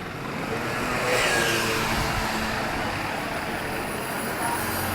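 A motor vehicle passing on a town street, swelling about a second in with a falling pitch as it goes by, over steady street traffic noise.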